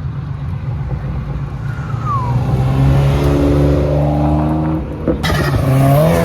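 A car engine revving hard as the car accelerates away. The engine note climbs and holds, then drops with a sharp crack about five seconds in, like a gear change or exhaust pop, before it climbs again and falls away.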